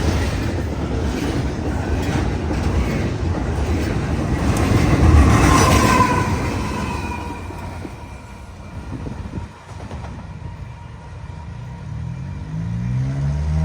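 Train cars rolling past over the crossing, wheels clattering on the rails, the sound fading away after about six or seven seconds. Near the end an engine starts up and revs, rising in pitch.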